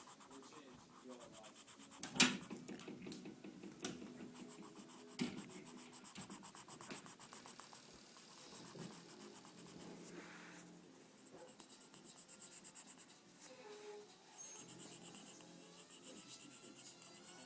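Faint scratching and rubbing strokes of drawing on paper, with a sharper knock about two seconds in.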